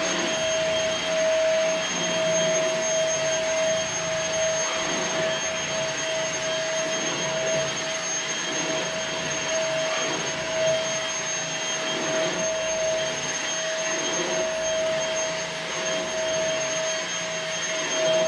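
Temu cordless stick vacuum, a Dyson-style knockoff, running on its turbo setting: a steady motor whine over airflow hiss that stays constant as it sucks up dog hair from the floor.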